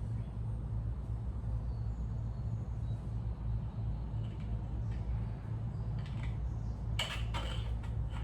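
Small parts being handled during a carburetor and gasket fitting: a few light clicks, then a short cluster of sharp clinks near the end, over a steady low hum.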